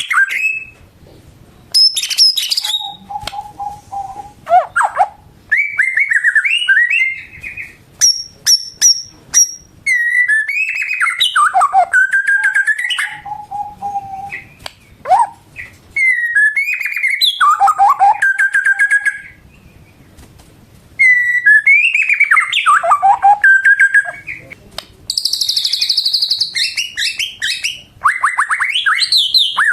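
White-rumped shama (murai batu) in full song: loud phrases of rich whistles, sliding notes and quick trills, separated by short pauses, with a harsher buzzy phrase near the end.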